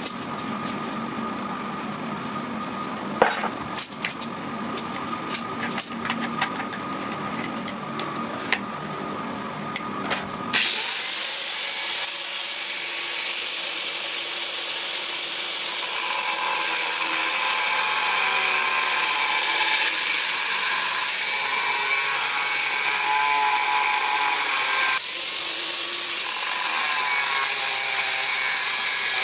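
A low mechanical hum with scattered sharp clicks and knocks, then, about ten seconds in, the sound switches abruptly to a power grinder working steel: a loud, steady, hissy grinding whose pitch shifts as it goes.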